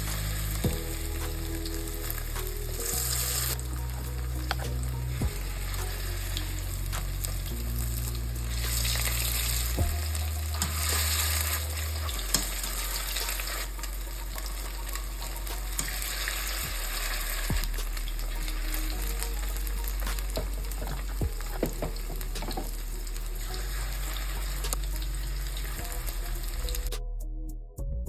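Food frying in a pan, with a steady sizzle and the clicks and scrapes of a spatula stirring it. The sizzle cuts off suddenly near the end.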